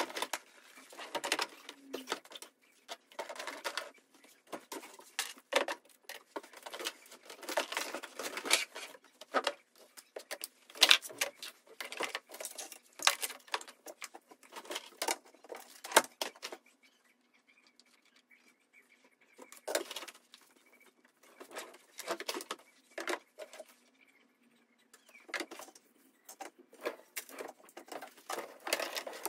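Household items being handled and put away: irregular taps, clicks, light knocks and rustles, with a couple of short pauses.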